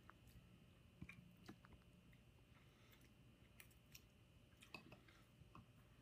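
Faint chewing of a mouthful of ramen noodles, with a few soft clicks scattered through.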